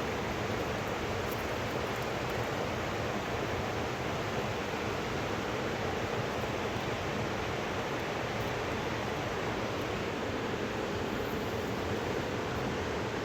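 Steady rushing of fast-flowing river water, an even, unbroken roar.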